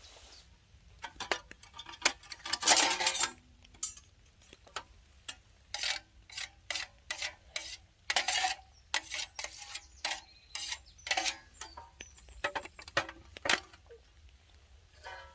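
Camping gear being handled and packed away: irregular light clinks and clatters of metal pieces, mixed with short rustles.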